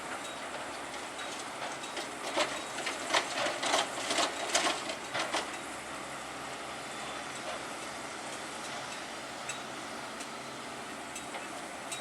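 Heavy construction machinery running steadily, with a rapid run of clattering knocks for about three seconds starting about two seconds in.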